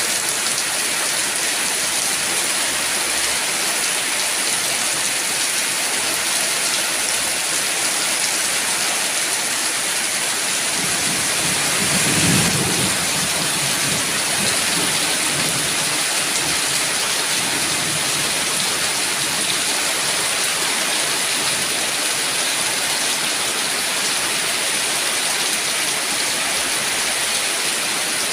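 Steady rain falling, with a brief low rumble of thunder about twelve seconds in.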